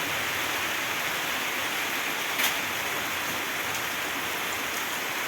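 Steady heavy rain falling, with one short sharp drip or knock about two and a half seconds in.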